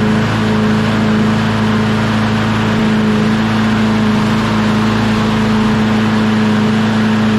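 John Deere JS36 walk-behind mower engine running steadily at high speed, its governor spring just tightened to raise the RPM, which the owner finds a little too high.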